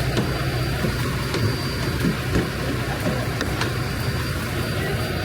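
Semi truck driving, heard from inside the cab: a steady low engine and road drone with a few scattered light ticks.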